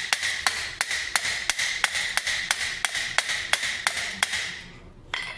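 Hammer striking the steel of a topfhelm in a steady run of about a dozen blows, roughly three a second, with the steel ringing under them. The blows stop a little after four seconds in, and one more strike comes near the end.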